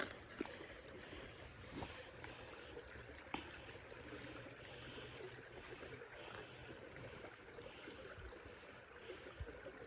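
Faint, steady rush of a creek's running water, with a few soft clicks and taps of handling now and then.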